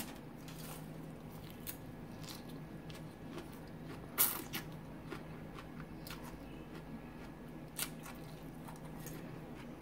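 Close-miked eating sounds: a mouthful of spinach and romaine salad being bitten and chewed, with scattered crisp clicks and crunches. The sharpest comes about four seconds in as the forkful goes into the mouth, and a steady low hum sits underneath.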